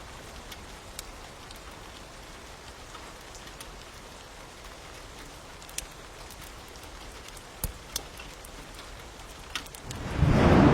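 Steady rain with scattered sharp crackles and pops, as from a crackling fire. Near the end a much louder, heavier rush of noise sets in suddenly.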